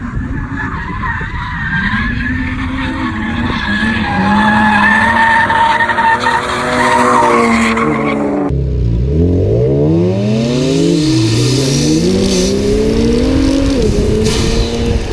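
Drift car engine revving hard, its pitch rising and falling, with tires skidding on the track. The sound changes abruptly about eight seconds in, after which the revs sweep steeply up and down.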